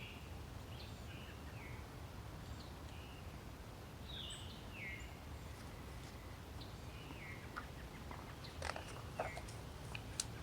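A bird calling in the background, short notes that fall in pitch, repeated about once a second over a faint steady hiss. A few sharp clicks come near the end.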